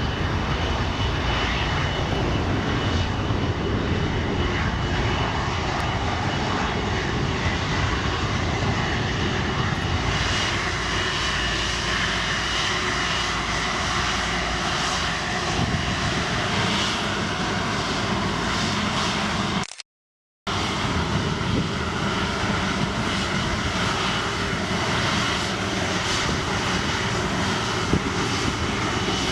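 Fixed-wing aircraft engine noise, a steady rushing sound that carries on throughout. The sound cuts out completely for under a second about twenty seconds in.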